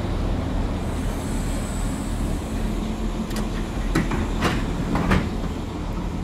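Steady low rumble of a passenger train standing at a station platform, with a faint high whine early on and four short sharp knocks about three to five seconds in.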